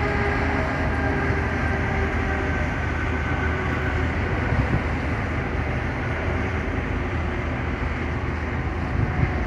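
Freight train of grain hopper wagons rolling past, a steady rumble with a thin whine over it that is clearest in the first few seconds.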